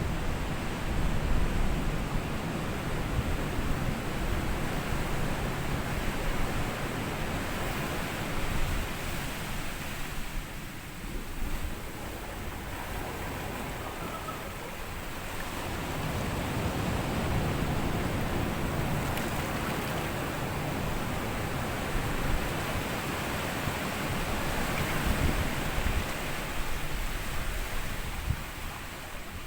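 Small sea waves washing onto a sandy beach, the surf swelling and easing over several seconds, with some wind on the microphone.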